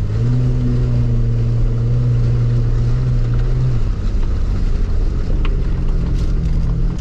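Jeep Wrangler LJ's engine running as it drives up a rough mountain road. For about four seconds it holds a steady pitch, then the steady tone fades into a rougher rumble.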